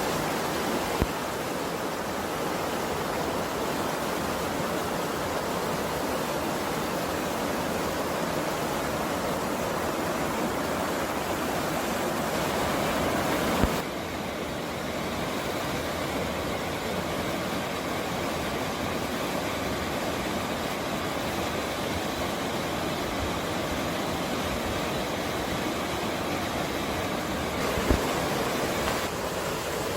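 Steady rush of running water in a mountain stream, an even hiss. A sharp click comes about 14 s in, after which the sound steps slightly quieter, and another click comes near the end.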